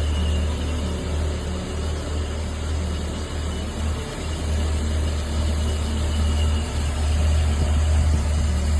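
Car engine idling steadily, its sound sitting low and even throughout.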